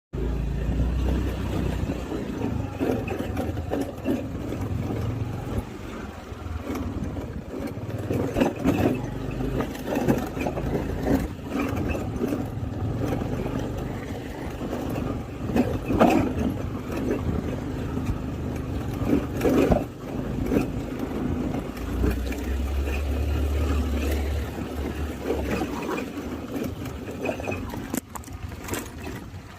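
Honda Activa scooter running with a steady low engine rumble and an odd noise: irregular knocks and short rattles come and go over it, and the rumble swells for a few seconds late on.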